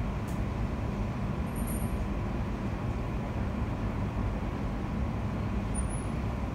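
Cabin noise inside a London Overground Class 710 electric multiple unit running at speed: a steady low rumble of wheels on the track, with a faint steady hum running under it.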